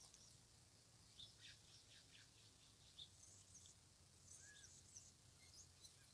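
Faint, scattered short high chirps of small birds over near silence, with one brief arched call about four and a half seconds in.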